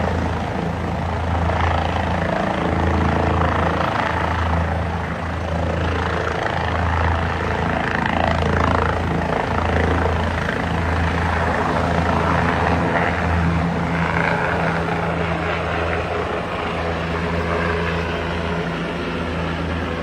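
Helicopter's rotor and engine running steadily, with a low, pulsing throb under a constant rushing noise.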